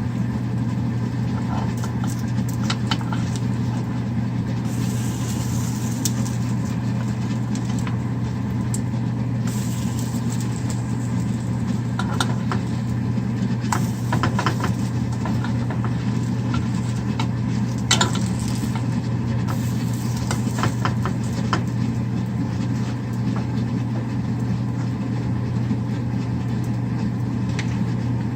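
A steady low machine hum, with scattered light crackles and clicks and two stretches of brighter hiss about five and ten seconds in.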